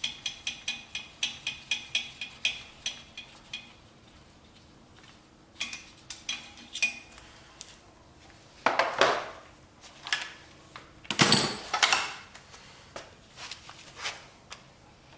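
Ratcheting gear wrench clicking steadily, about three or four ringing clicks a second, as bolts are worked loose on a 5.3 LS V8 engine being torn down. It stops after about three and a half seconds. Scattered metal clinks follow, with two louder spells of clanking and scraping of tools and parts, the loudest near the end.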